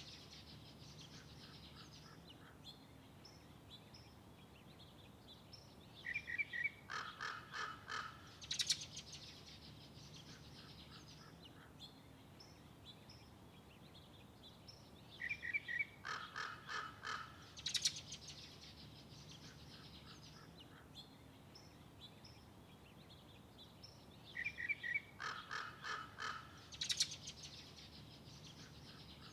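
A bird calling in three bouts about nine seconds apart. Each bout is a run of quick, harsh repeated calls lasting two to three seconds and ending in a sharp high note.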